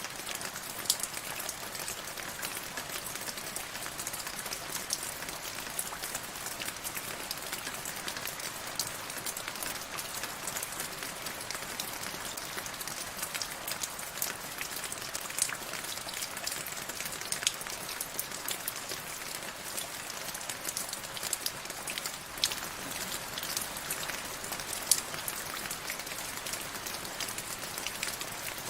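Steady rainfall, with many individual drops ticking sharply on a hard surface over a constant patter.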